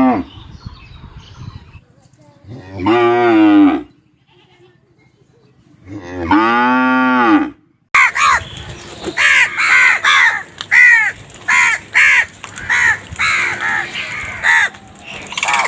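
A cow mooing twice: two long, low calls with a few seconds of quiet between them. Then a different clip begins, with a rapid run of short, harsh, higher calls, about two a second.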